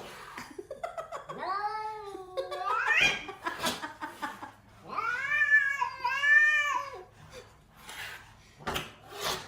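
A cat yowling in long, drawn-out calls: one about a second in, a rising one near three seconds, and a longer call that wavers up and down a second later. There are a few short knocks between the calls.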